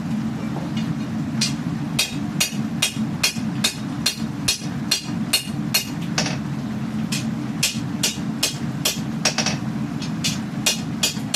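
Hammer blows on steel at the anvil while forging a katana blade: sharp ringing strikes, about two to three a second, with a short pause partway through. A steady low drone runs underneath.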